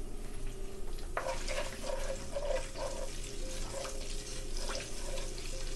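Hot oil sizzling as fried onion, cumin seeds and green chillies cook in a nonstick pan. A wooden spatula stirs and scrapes through them in repeated strokes from about a second in.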